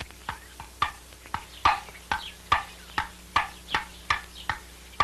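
Table-tennis rally: a ping-pong ball clicking back and forth off paddles and table, about three hits a second.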